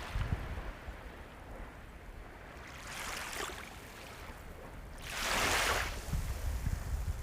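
Sea waves washing onto the shore: a soft wash about three seconds in, then a louder wave breaking and spreading out about five seconds in.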